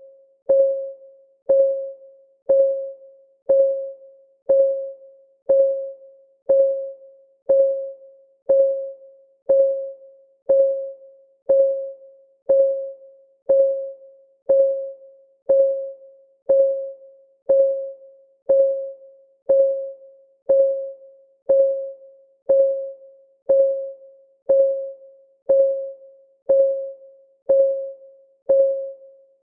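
Clock-style ticking of a countdown timer, one tick each second: every tick is a sharp click with a brief, ringing mid-pitched tone that fades quickly.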